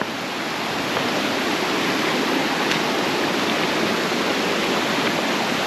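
Rushing water of a mountain river, a steady hiss that grows a little louder over the first second.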